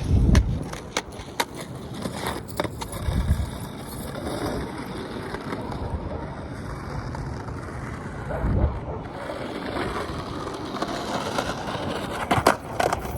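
Skateboard wheels rolling over pavement, with sharp clacks of the board striking the ground, a few between one and three seconds in and a loud cluster near the end. Low rumbles of wind on the microphone swell up three times.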